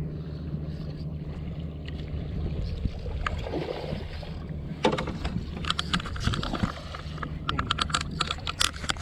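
Boat motor running steadily with a low hum. From about halfway through comes a quick run of sharp clicks and knocks.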